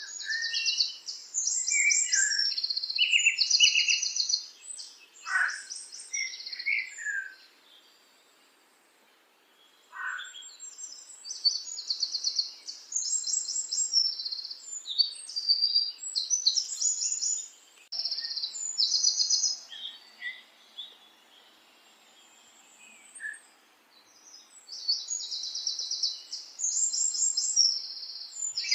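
A small bird singing in high, fast chattering phrases of a second or two each, with pauses between them and a few lower single notes mixed in.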